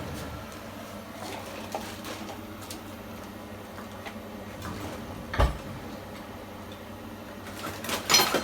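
Kitchen utensils being handled: scattered small clicks, a single sharp knock about five seconds in and a short clatter near the end, over a steady low hum.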